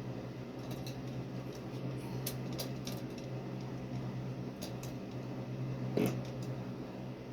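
Scattered light clicks and clinks of small hard objects being handled, with one louder knock about six seconds in, over a steady low hum.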